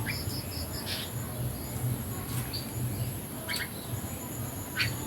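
Red-whiskered bulbul calling: short, sharp chirps about once a second, with a quick run of notes near the start. A steady high whine and a low hum run underneath.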